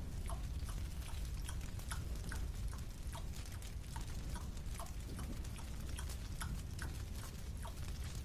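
Marshmallow being chewed: small, sharp, sticky mouth clicks, irregular, about two to three a second, over a low steady rumble.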